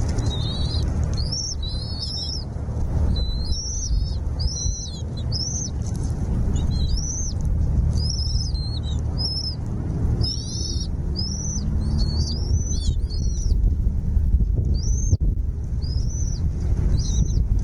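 Small birds chirping: a long run of short, high, arched chirps, several a second and sometimes two at once, over a steady low rumble.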